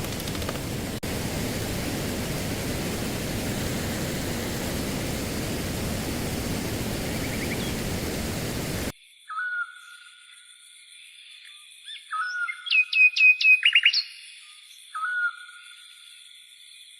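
Steady rushing water of a stream, then about nine seconds in an abrupt cut to quieter birdsong: short whistled notes and a quick run of chirps over a faint steady high tone.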